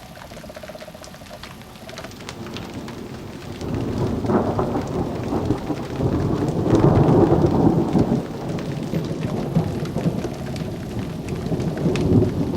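Thunder rumbling over steady rain: a long low roll builds about three seconds in, peaks near the middle and fades slowly, with the rain pattering and dripping throughout.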